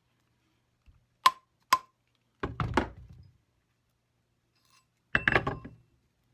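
Mallet striking a 14k gold ring band on a ring mandrel, shaping the band round: two sharp ringing taps, then two short flurries of quick knocks.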